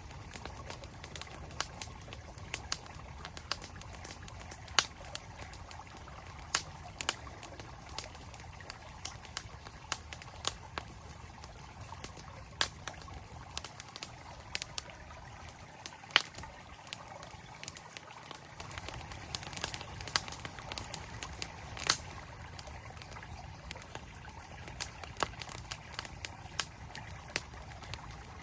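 Campfire crackling, with irregular sharp pops and snaps several times a second, over the steady rush of a flowing mountain stream.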